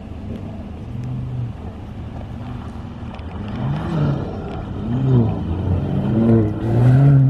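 Mercedes-AMG E53 coupé's turbocharged inline-six revving up and down in repeated surges as the car slides sideways on snow under throttle. It grows louder as the car comes close near the end.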